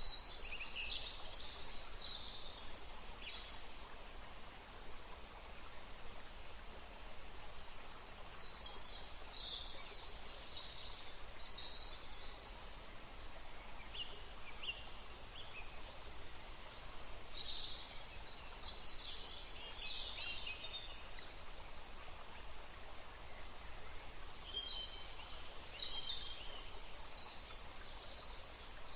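Woodland ambience: a soft steady background hiss with bouts of a bird singing, quick high chirping phrases every few seconds.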